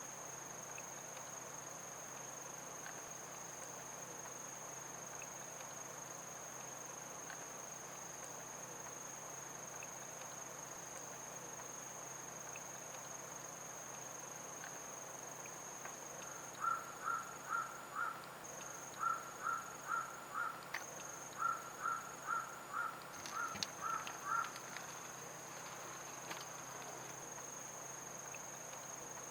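Insects trilling on one steady high note. For about eight seconds in the middle, short calls repeat a few times a second in small groups over the trill.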